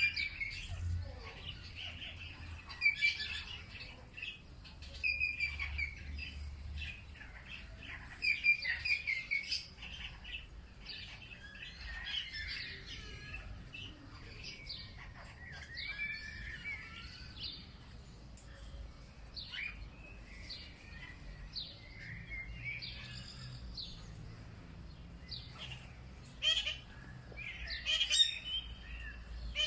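Several songbirds chirping and singing together, short calls and trills overlapping throughout, over a faint low rumble.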